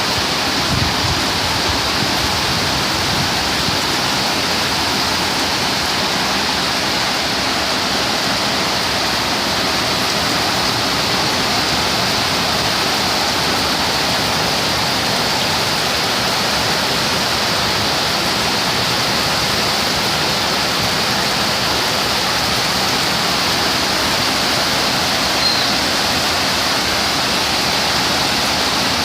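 Torrential rain pouring down in a dense, steady hiss that holds at the same level throughout.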